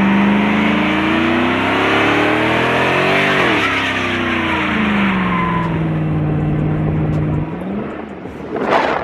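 Vehicle engine revving hard during a burnout, with a rushing haze from the spinning tyres. The revs climb to a peak about three seconds in, drop back and hold high, then cut off about seven seconds in. A brief loud rush follows near the end.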